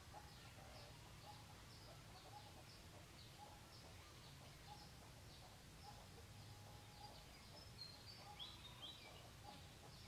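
Faint bird calls: short chirps and notes repeating about twice a second, a few of them louder near the end, over a low steady hum.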